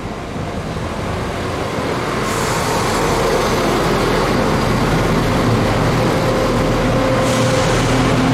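Diesel train approaching, its engine drone and wheel noise growing steadily louder.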